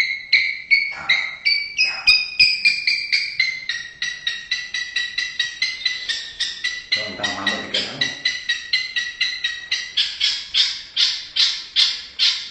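White-rumped shama (murai batu) calling in a long series of short, sharp repeated notes, quickening from about three to about five a second, then slowing to louder, fuller notes near the end.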